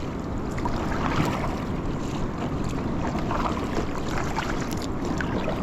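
Steady water wash and splashing around a fishing kayak (ski) being paddled out through small surf, with wind buffeting the microphone.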